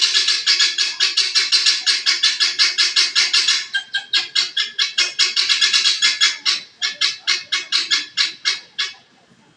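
Guinea fowl calling: a fast, harsh, rattling chatter of about six notes a second that breaks off briefly and then slows into more widely spaced calls before stopping.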